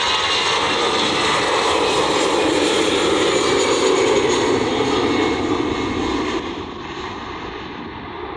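Airbus A320 airliner's jet engines at takeoff thrust, loud and steady, then dropping in level and growing duller about six seconds in as the aircraft moves away.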